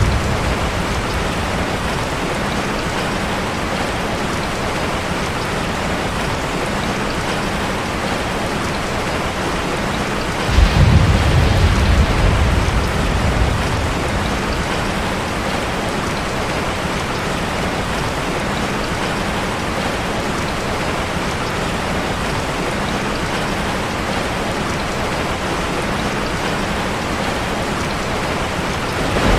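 Steady rain drumming on a metal roof, with a low rumble of thunder that starts suddenly about ten seconds in and fades over a few seconds.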